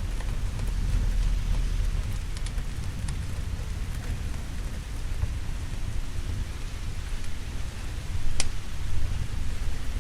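Steady rain with a low rolling rumble of thunder underneath. A few sharp pops sound through it, the loudest about eight seconds in.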